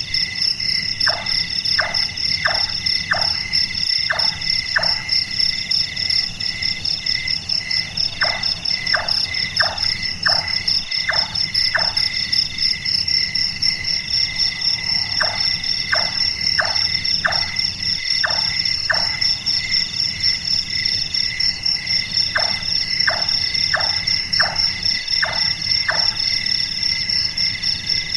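Large-tailed nightjar calling: four series of about six evenly spaced, hollow knocking "chonk" notes, like a carpenter hammering, each series a few seconds long with pauses between. Underneath runs a steady, high-pitched trilling chorus of night insects.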